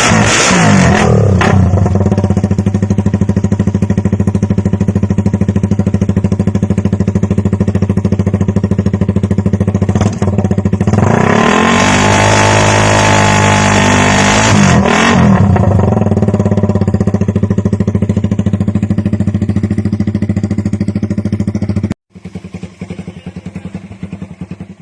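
Suzuki Raider 150 single-cylinder four-stroke engine idling loudly through an aftermarket exhaust, blipped briefly at the start and revved up and back down about halfway through. Near the end it cuts abruptly to a quieter motorcycle idling.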